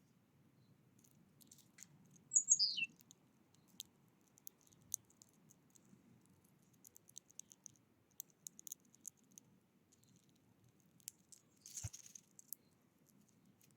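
A small songbird gives a brief high call that falls in pitch, about two seconds in, amid scattered short high ticks and chips. A short rustle comes near the end.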